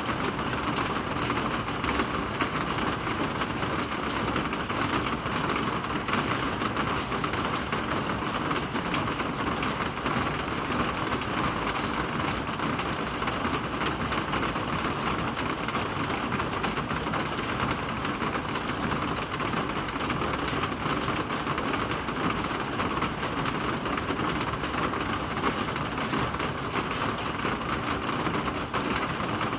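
Steady rain falling: an even hiss of many drops, unchanging throughout.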